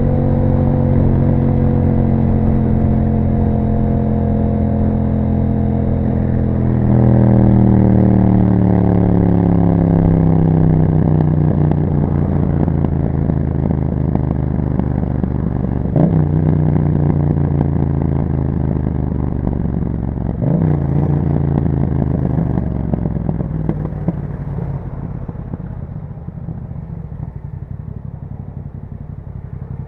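2021 Yamaha MT-07's parallel-twin engine running through an Akrapovic exhaust as the bike slows: the engine note falls steadily, steps up and louder about seven seconds in, and gives two short blips around sixteen and twenty seconds, as on downshifts. Near the end it settles lower and quieter.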